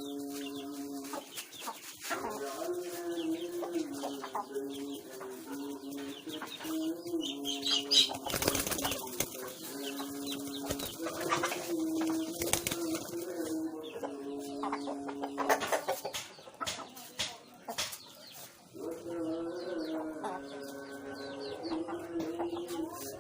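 White fantail pigeons cooing in long, low, rolling phrases, with bursts of wing flapping and sharp clicks. The loudest flapping comes about 8 seconds in and again about 12 seconds in, with more clicks a little later.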